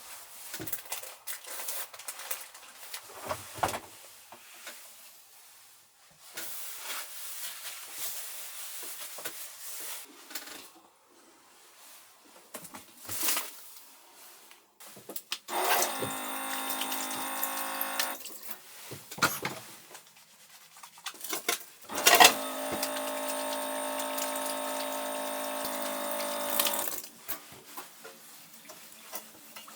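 Water running from a small sink tap twice, once briefly about halfway through and again for several seconds, with a steady even pitch. Light clinks and handling noises come in between.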